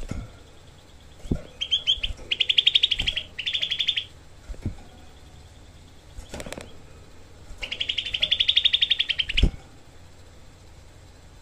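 Cucak kelabu (grey-bellied bulbul) singing dense, rapid-fire trills of quickly repeated harsh notes: a few short bursts in the first four seconds and a longer one near the end. Several brief low thumps come between the trills.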